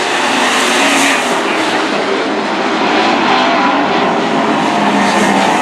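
Engines of several dirt-track super trucks running together on the oval, a steady loud mix of engine tones over dense noise.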